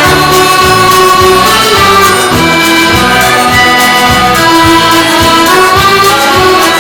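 Live band playing an instrumental passage of an Irish ballad, sustained melody notes over a steady beat.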